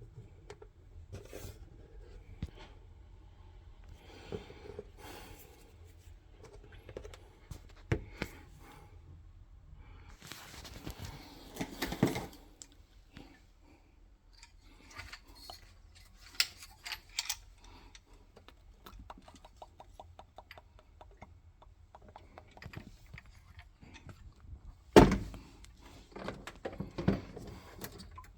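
Hands and tools working on a boiler's pipework and fittings: scattered clicks, scrapes and small metal knocks, a run of quick even ticks about two-thirds of the way through, and a single loud knock near the end.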